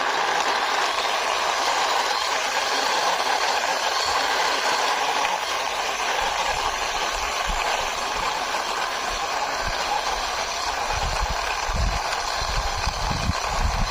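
Toy auto rickshaw pushed along by hand, its small wheels rolling with a steady rattling rumble, with a few low bumps near the end.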